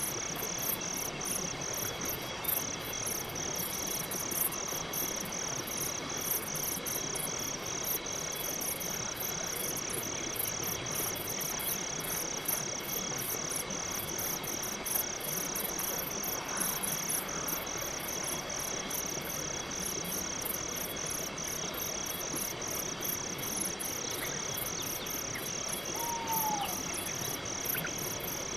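Crickets chirping in a steady, evenly repeating pulse, with a higher, faster insect pulsing above it over a faint background hiss. A short falling whistle sounds near the end.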